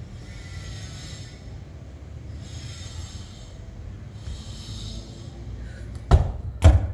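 Two sharp thuds close together near the end, a football being kicked or struck, over a steady low rumble with a hiss that swells every couple of seconds.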